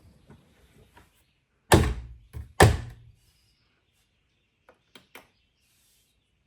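Two heavy thunks about a second apart, with a smaller knock between them, then three light clicks near the end: knocks from parts being handled during work on a washing machine.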